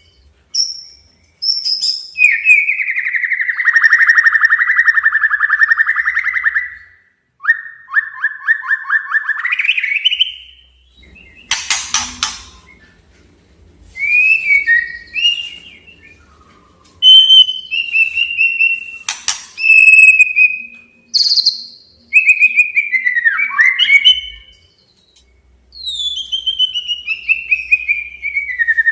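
White-rumped shama singing a challenge song: long, fast rattling trills, one rising at its end, whistled notes sliding downward, and two sharp clicks, separated by short pauses.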